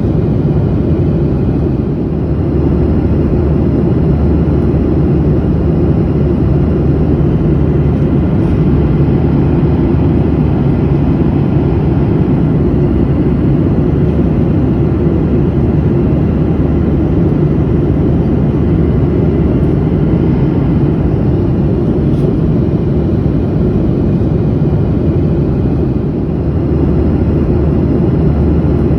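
Steady low drone of an airliner in flight, heard from inside the cabin: engine and airflow noise with a faint steady hum and no changes.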